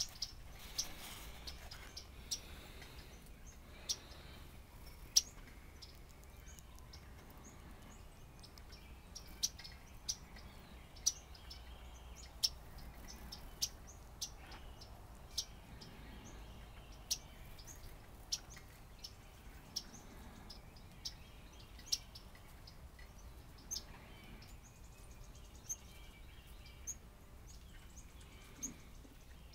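Small songbirds, warblers, giving short, sharp chip notes, scattered irregularly about one every second or so. A faint low rumble runs underneath.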